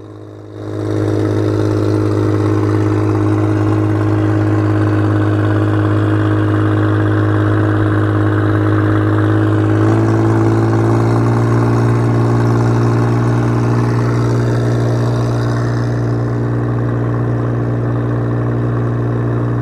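Boat engine running under way. It opens up about a second in and then runs steadily, with its note shifting about halfway through.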